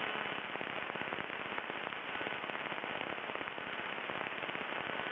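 Crackling static on the aircraft's radio and intercom audio, a steady dense patter of fine clicks with the thin, band-limited sound of a headset feed, from a radio that was crackling badly.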